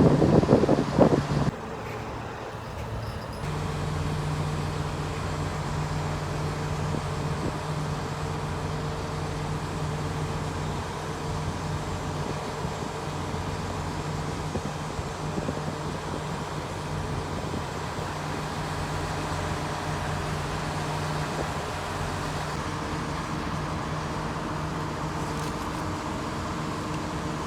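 A loud burst of noise for the first second and a half, then an engine starts a steady low drone at a constant speed about three and a half seconds in.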